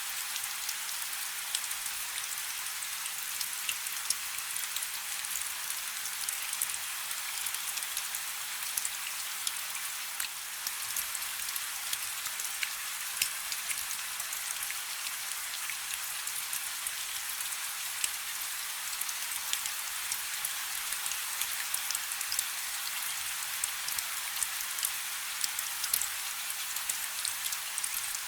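Steady rain falling on a river: a dense, even hiss of rain with many separate drop impacts pattering through it.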